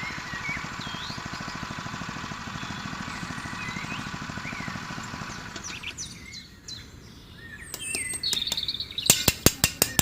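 Small motor of a DIY mini tractor water-pump rig running with a steady, fast rhythm, with birds chirping over it. The motor dies away about six seconds in, leaving bird calls, and sharp regular clicks start near the end.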